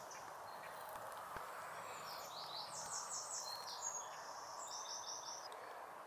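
Steady background hiss, with a small bird's high, rapid calls in short runs of repeated notes from about two to five seconds in.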